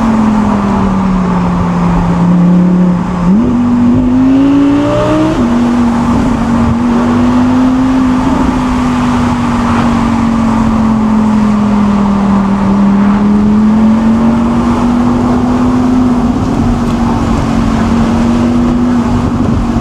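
Audi R8 Spyder's 5.2-litre naturally aspirated V10 driving under way, its note sagging, then climbing and dropping sharply about five seconds in as it shifts up. It then holds a fairly steady drone, with tyre and road noise.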